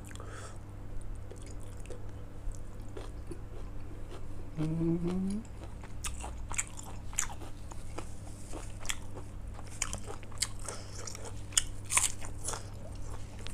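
Close-up eating sounds: a person chewing and biting a mouthful of food, with many short crunchy clicks. A brief rising hum from the eater comes about four and a half seconds in.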